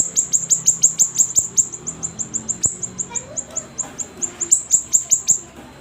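Siri-siri songbird in full song: a rapid string of short, high, sharply downward-sweeping chirps, about six to eight a second, with a brief pause near the end.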